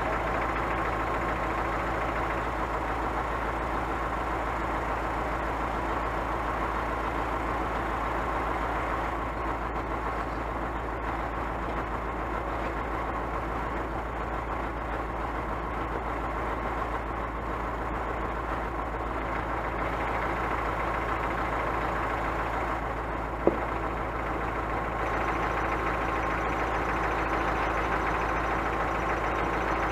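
Scania truck's diesel engine running steadily, with one sharp click about three-quarters of the way through.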